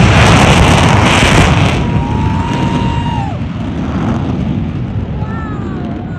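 Loud jet roar of Blue Angels F/A-18 Super Hornets passing, fading steadily after about two seconds as they pull away, with thin whines falling in pitch near the end.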